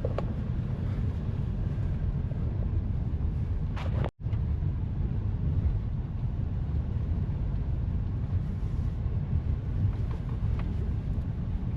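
Steady low rumble of a car's road and engine noise heard from inside the cabin while driving. The sound cuts out completely for a split second about four seconds in, then resumes.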